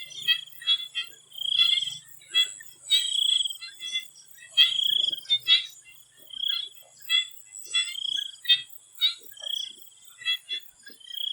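Swamp frogs calling in chorus: a longer pulsed call repeats about every second and a half, with many short quick calls from other frogs between. Under them runs a steady thin high whine of insects.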